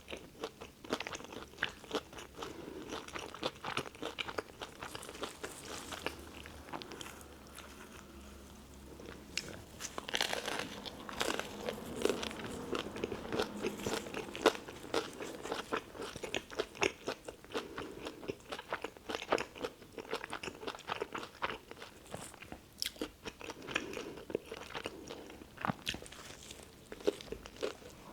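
Close-up eating sounds: crunching and chewing on a tuna melt sandwich, its toasted bread crackling with each bite, in a dense, irregular stream of crisp clicks.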